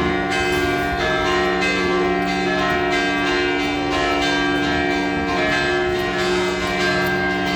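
Sustained bell-like chords, with many held tones ringing on together and faint repeated strikes, played through the sound system.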